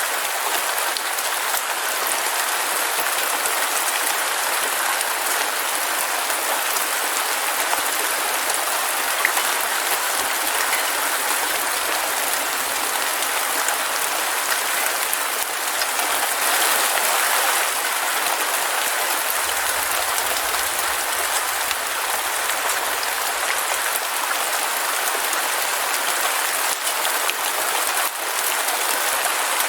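Heavy rain falling steadily, an even hiss of dense drops. About two-thirds through there is a faint, brief low rumble underneath.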